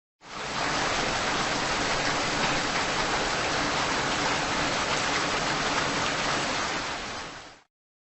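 Steady rain sound effect that starts just after the beginning and fades out about seven and a half seconds in.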